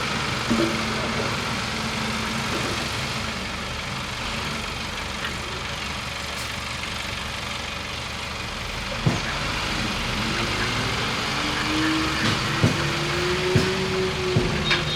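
Bulldozer's diesel engine running steadily, with its pitch rising and then holding about two-thirds in. Several sharp clanks sound in the second half.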